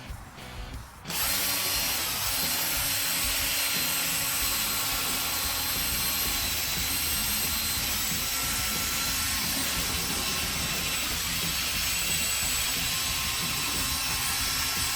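Electric drill starting up about a second in and running steadily, spinning a sanding pad that wet-sands a plastic headlight lens.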